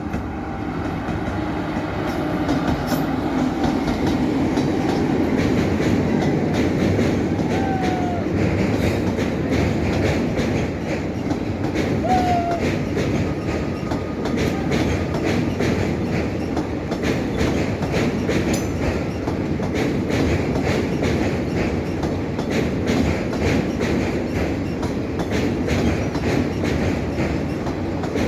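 Passenger train running at speed over a bridge: a steady rolling rumble with continuous clatter of wheels over the rails, and two brief wheel squeals partway through.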